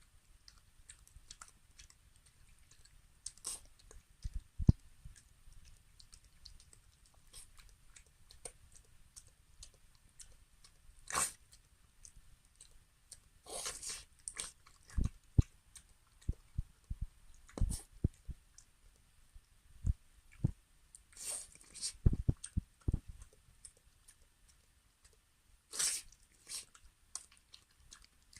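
A 16-year-old Maltese dog eating, with irregular chewing and biting sounds: scattered sharp clicks and short crunches with quiet gaps between them.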